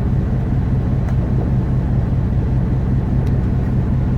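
Boat engine running steadily, a low even drone heard at the helm, with a few faint ticks over it.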